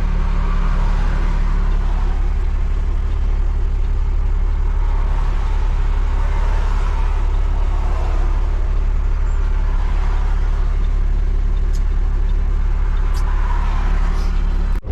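Heavy truck's diesel engine idling steadily, a constant low hum.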